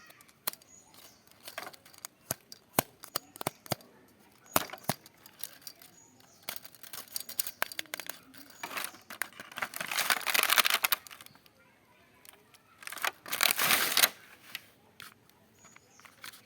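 Handling sounds: scattered sharp clicks and taps, with two longer bursts of rustling, the louder about ten seconds in and another about thirteen seconds in.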